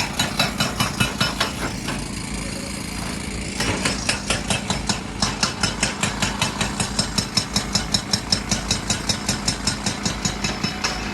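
Hydraulic rock breaker hammering on stone over a running diesel engine: rapid, even strikes, about five to six a second, that ease off briefly about two seconds in and then resume strongly.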